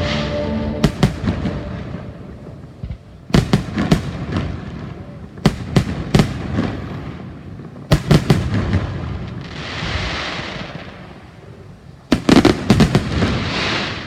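Fireworks display: aerial shells bursting in quick clusters of sharp bangs every couple of seconds, with a hiss of burning effects after about ten seconds and again near the end.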